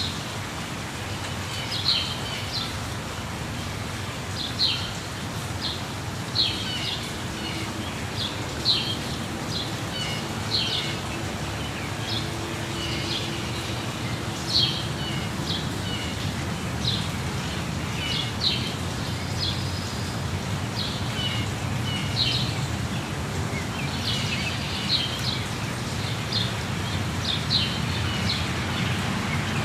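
Birds chirping in short, high calls, one every second or so, over a steady low rushing noise.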